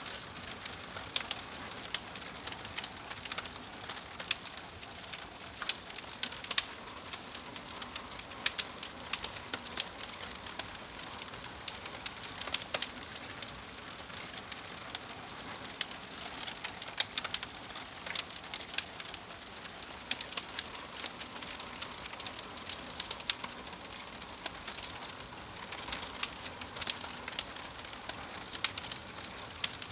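Fire crackling: irregular sharp pops and snaps over a steady soft hiss, several a second throughout.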